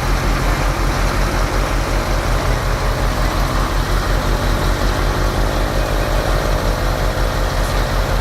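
Heavy diesel engine running steadily, with an even pulsing low throb.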